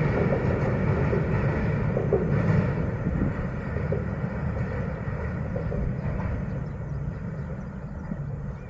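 Passenger train rolling away across a steel truss railway bridge: a low rumble of wheels on the bridge that slowly fades as the train recedes.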